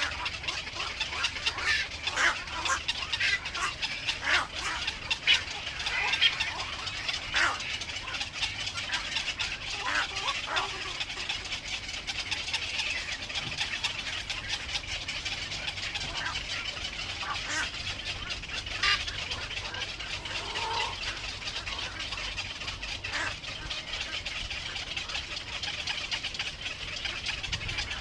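Baby birds chirping: many short, high calls, most frequent in the first half, over a steady high hiss.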